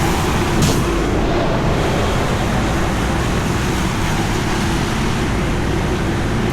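Heavy rain falling steadily on a city street, mixed with the hiss of road traffic on wet pavement; a short burst of hiss comes under a second in.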